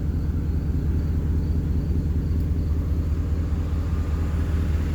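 2016 Chevy Silverado idling cold through an MVP Auto cat-back dual exhaust: a steady low rumble. It is smooth with no rattle, now that the exhaust hanger that touched the frame has been cut.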